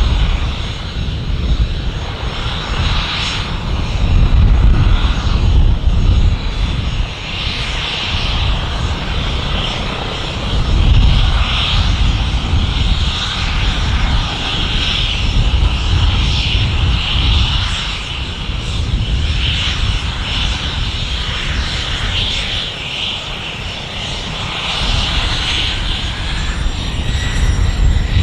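Business aircraft's engines running: a steady hiss with a low rumble that swells and fades, and a faint rising whine near the end.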